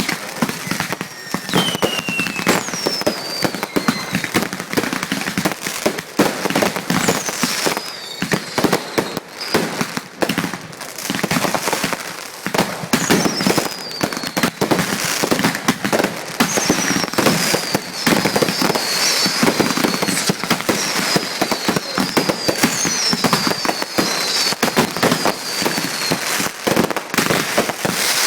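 Fireworks finale: a dense, continuous barrage of bangs and crackling shell bursts, with several high whistles falling in pitch over it.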